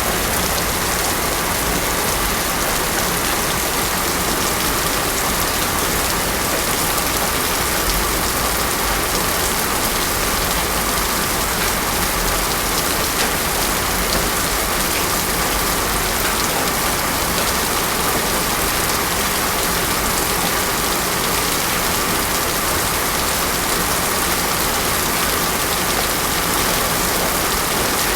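Heavy rain falling steadily on a road, with no thunder.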